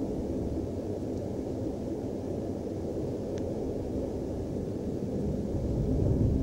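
Steady low rumble of a passenger train running on the rails, heard from inside the carriage, growing louder near the end.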